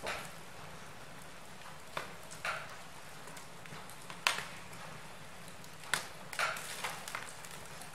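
Wood fire crackling in a fireplace: irregular sharp pops and snaps over a steady low hiss, the loudest pop a little past the middle.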